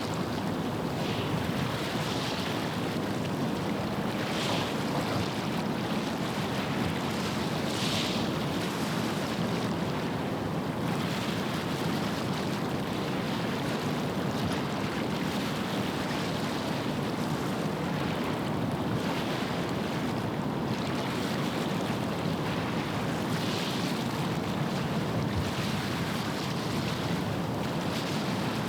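Small waves washing against the estuary shore, with a short hiss every few seconds, over a steady low rumble of wind and water.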